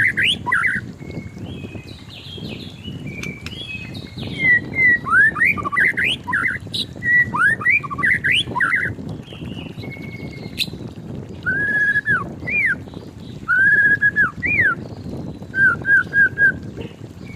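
White-rumped shama singing: a fast run of whistled notes swooping up and down, then a few longer, arched whistles and a quick series of four short notes near the end.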